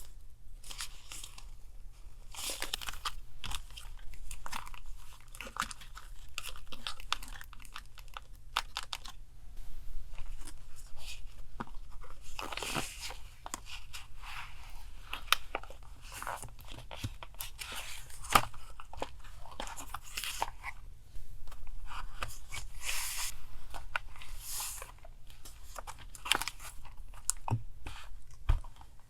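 Paper being handled at close range: irregular crinkling, rustling and tearing noises with small clicks, over a steady low hum.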